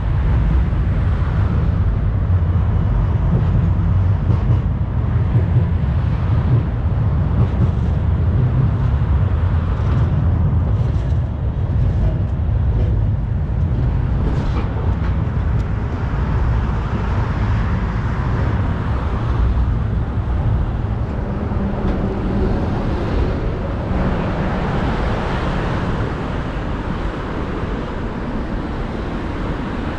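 Steady low rumble of city road traffic, vehicles passing continuously, with no distinct single event.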